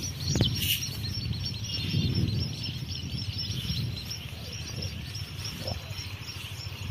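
Small birds chirping in a quick string of short, high notes, several a second, over a low rumble.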